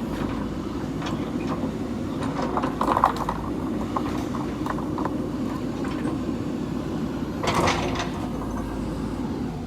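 JCB 3DX backhoe loader's diesel engine running steadily at work, with scattered knocks and clatters; the loudest comes about three seconds in, and another sharp clatter about seven and a half seconds in.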